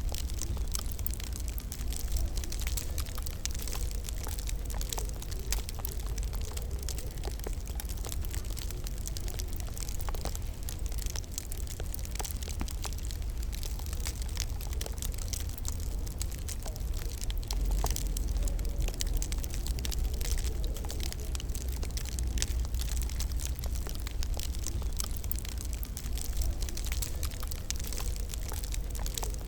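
Wood fire crackling in a fireplace: a dense, irregular patter of small pops and snaps over a steady low rumble.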